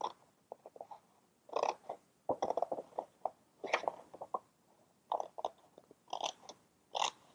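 Scissors cutting through a paper sheet: a run of short crisp snips in irregular clusters with brief pauses between.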